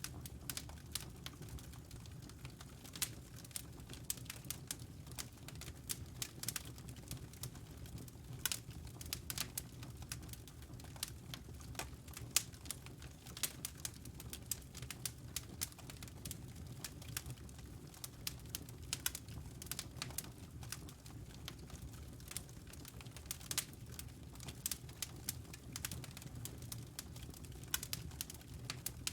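Wood logs burning in a fireplace, crackling: irregular sharp snaps and pops, several a second, over a steady low rush from the fire.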